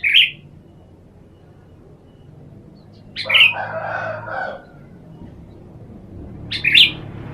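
Sooty-headed bulbul calling: three short loud calls a few seconds apart, the middle one running on into a longer, lower phrase of about a second and a half.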